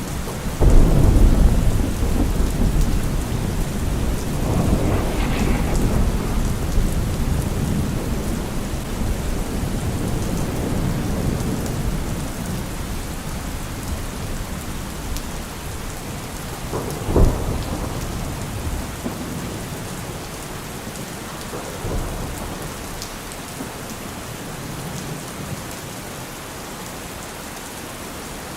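Heavy rain drumming steadily on a car roof, with thunder: a loud low rumble breaks about half a second in and rolls on, slowly fading, then a sharper thunderclap about two thirds of the way through and a fainter one soon after.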